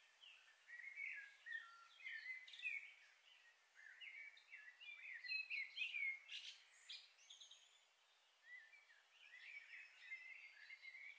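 Faint, busy chirping of small birds: many short, quick calls overlapping, sweeping up and down in pitch, with a few sharp clicks around the middle.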